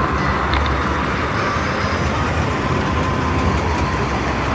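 Steady low vehicle rumble with an even background hum and no distinct events.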